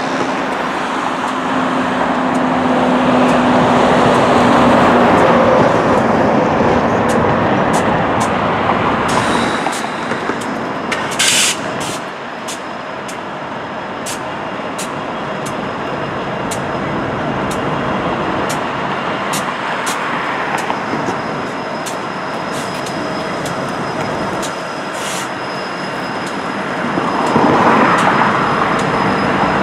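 Diesel freight locomotives passing on the tracks, mixed with steady road traffic noise. There are scattered sharp clicks and a short high-pitched noise about eleven seconds in.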